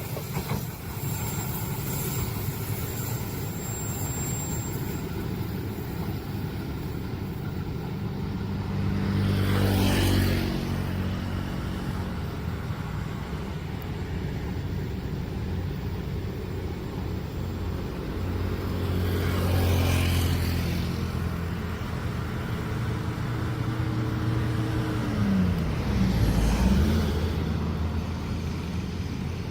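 Road traffic: engines idling steadily, with vehicles driving past about a third and two-thirds of the way in. Near the end, one engine's pitch drops and rises again.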